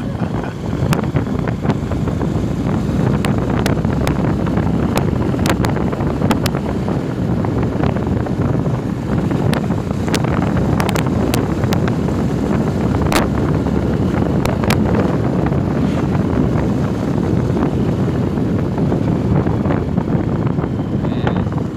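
Wind rushing over the microphone of a moving motorcycle, with steady low engine and road noise underneath and scattered short clicks.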